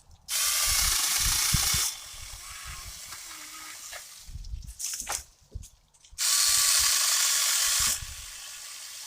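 Saker 20V mini cordless chainsaw with a 4-inch bar, triggered in two bursts of about a second and a half, some six seconds apart, its chain cutting through a piece of popple (poplar) about 3.5 inches thick. Low knocks in between.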